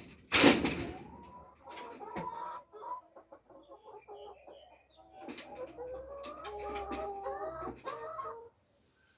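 Backyard hens clucking and giving short squawks, with one loud knock just after the start. The calls stop abruptly about a second before the end.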